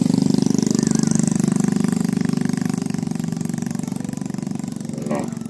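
A motor engine running steadily with a rapid pulse, slowly getting fainter, with a short sliding call near the end.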